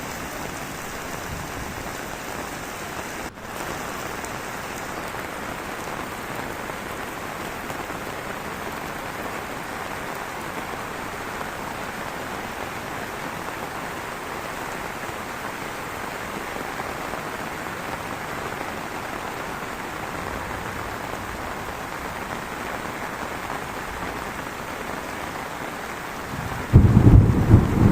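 Heavy rain falling steadily. Near the end a much louder, low-pitched rumbling noise suddenly sets in over it.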